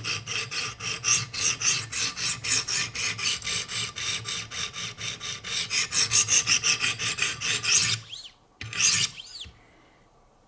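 100-grit diamond stones of a Wicked Edge guided sharpener scraping back and forth along a hard S90V steel knife edge, about five quick grinding strokes a second, stopping about eight seconds in. One more short scrape follows about a second later.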